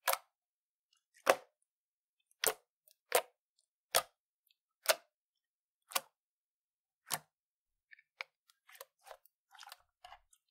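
Slime being pressed and played with by hand, giving sharp pops about once a second, then a run of softer crackles and clicks near the end.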